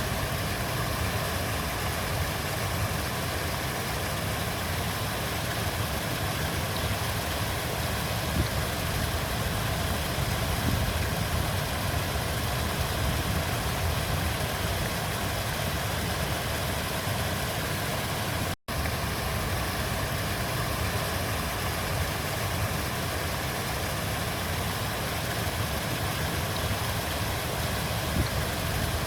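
River water flowing: a steady, even rush with a deep low rumble beneath it. The sound cuts out for a split second about two-thirds of the way through.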